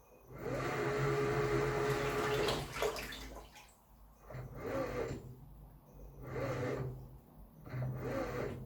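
Samsung Wobble 14 kg top-loading washing machine washing a comforter: water rushes and churns for the first couple of seconds, then the load sloshes in regular surges about every second and a half to two seconds, each with a low motor hum as the drum agitates.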